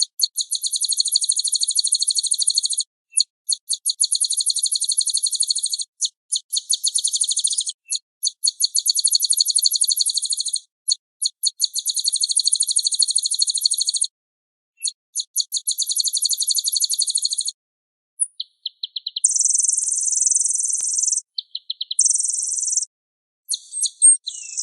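Small songbirds singing on a bird-training (masteran) recording of white-eye song with canary and blackthroat fills: fast, high-pitched trills of rapidly repeated notes in long phrases broken by dead silences. After a pause about two-thirds of the way through, the song turns to shorter, denser bursts.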